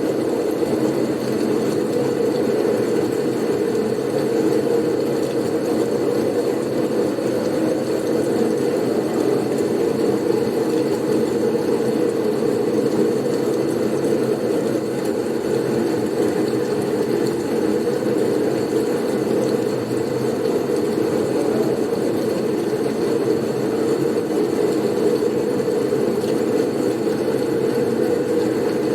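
Blizzard wind noise: a steady, even low rush with no gusts or breaks, and a faint thin hiss higher up.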